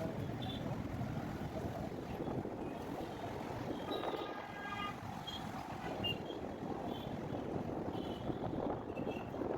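Road traffic noise with wind buffeting the microphone, and a brief horn-like tone about four seconds in.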